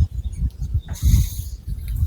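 Long fingernails scratching through thick hair and along the scalp, close to the microphone: irregular scratching strokes with a low rubbing rumble beneath.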